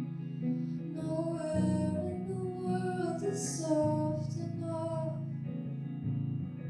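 A singer-songwriter singing a phrase over plucked acoustic guitar, the voice coming in about a second in and dropping out near the end while the guitar keeps playing.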